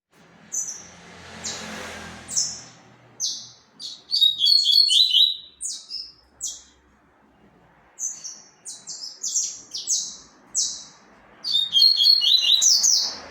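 Double-collared seedeater (coleiro) singing its 'tui-tui zel-zel' song with vigour. It gives two long phrases of sharp, high whistled notes, each with a fast trill in the middle, with a short pause between them.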